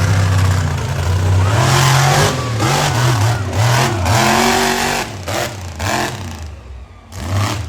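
Monster truck's big-block V8 engine revving hard in repeated surges, its pitch rising and falling about once a second, with a brief drop in throttle near the end before it picks up again.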